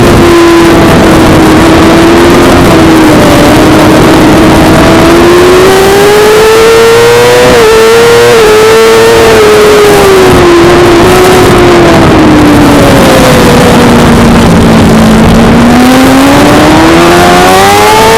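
Suzuki GSX-R600 inline-four engine running hard at high revs. Its pitch climbs and falls repeatedly with throttle and gear changes, drops to its lowest about fourteen to fifteen seconds in, then climbs steeply again near the end. A steady rush of wind-like noise runs underneath.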